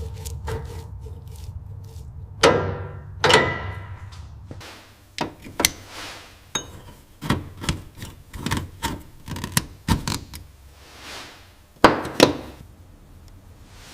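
Hand-tool work on car parts: a low steady hum for the first few seconds, then a run of irregular knocks and taps, with two pairs of sharp ringing clanks, one early and one near the end.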